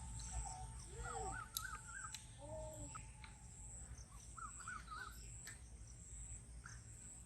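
Faint birds calling outdoors: two short warbling phrases, about a second in and again around five seconds, with a few lower arched calls between them, over a thin steady high tone.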